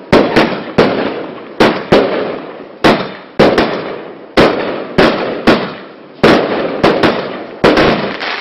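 Multi-shot firework barrage firing: a sharp bang roughly every half second to second, each one trailing off in a long rumbling echo.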